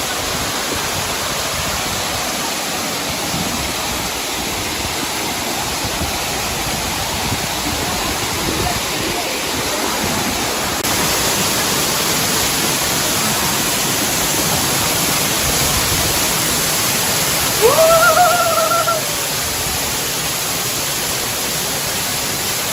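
Steady rushing roar of a waterfall's falling water, a little louder from about halfway through. Near the end a short high call rises and then holds for about a second above the roar.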